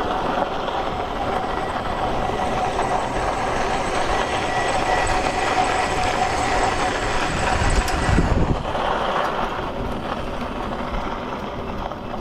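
Freego X2 electric dirt bike riding over dirt: a steady electric-motor whine over the noise of knobby tires and wind. The whine stops about eight seconds in, with a brief low rumble, and the ride goes on more quietly.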